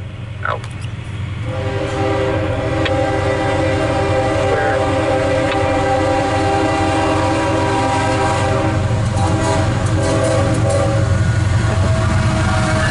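A CSX freight train's five diesel locomotives approaching and passing close by at a grade crossing. The lead unit's air horn sounds a held chord from about a second and a half in, over the engines' low rumble, and the sound grows louder over the first two seconds.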